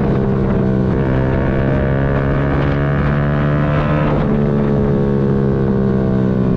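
Yamaha MT-125's single-cylinder four-stroke engine running under way at a fairly steady engine speed.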